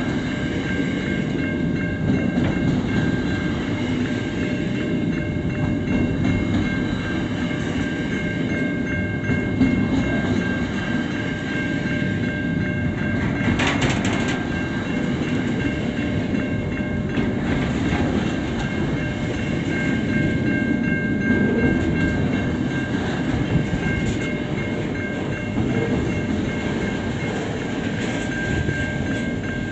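Container wagons of a freight train rolling past at close range: a steady rumble and clatter of steel wheels on the rails, with one sharp clank about fourteen seconds in. A steady high-pitched tone rings above the rumble.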